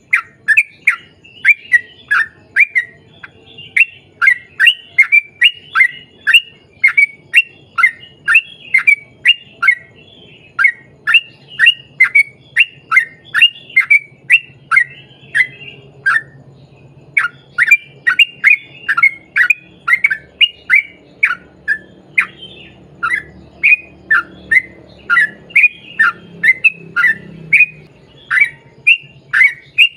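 Yellow-vented bulbul singing a long, fast chattering series of short, sharp downward-slurred notes, about three to four a second, with a brief pause about halfway through.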